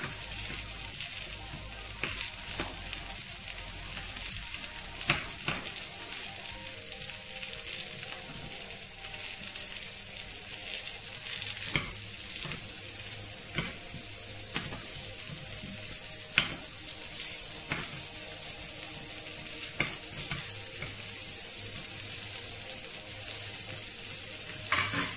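Pea-and-gram-flour pakoras frying in a little oil in an appe pan over a low-to-medium flame: a steady sizzle, with occasional sharp clicks.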